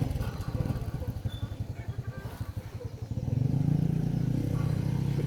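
15 hp diesel engine running with rapid, even firing pulses, getting louder and steadier about three seconds in.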